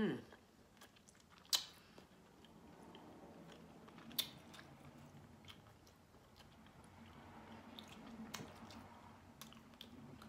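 A person chewing a mouthful of barbecue rib meat, with three sharp clicks spread through.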